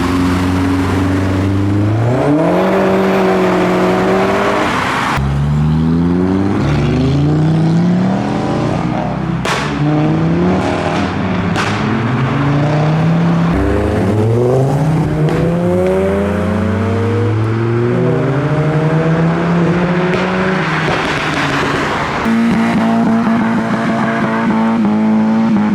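Modified cars accelerating hard away one after another, each engine rising in pitch as it revs up through the gears. The sound breaks off and starts afresh several times as separate cars go by.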